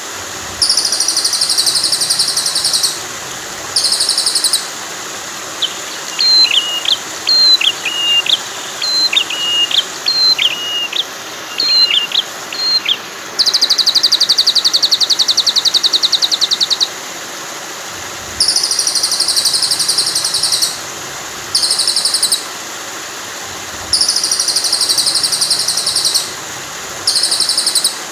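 Recorded songbird song over steady flowing water. Rapid, high, buzzy trills come in repeated bursts of two to three seconds, and a run of clear whistled notes sounds in the middle.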